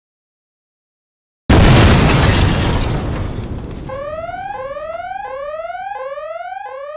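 Sound effect: a sudden loud explosion-like blast about a second and a half in, dying away over a couple of seconds, then a looping electronic alarm tone that rises in pitch and snaps back about every two-thirds of a second.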